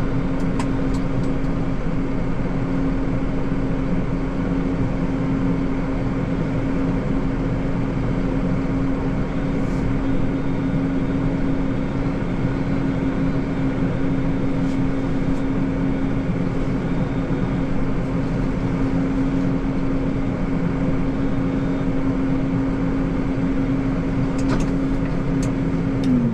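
Deutz tractor's diesel engine running at a steady, constant speed, dipping slightly in pitch near the end.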